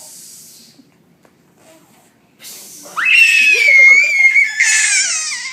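Baby's loud, high-pitched squeal, starting about three seconds in after a short breathy huff, held for over two seconds and sliding down in pitch at the end.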